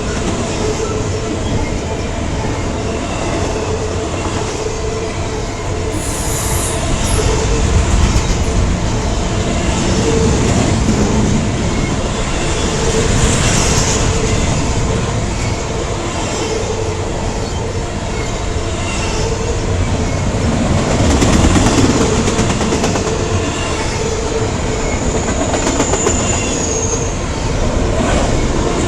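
Norfolk Southern freight train passing close by: a steady, loud rumble of wheels on rail with clickety-clack over the rail joints and brief high-pitched wheel squeals, once a few seconds in and again near the end.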